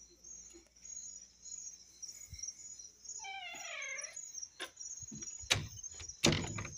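A dog whining once, a falling cry just under a second long about three seconds in, over a steady pulsing chirp of insects. A few sharp knocks follow near the end, the loudest just before it.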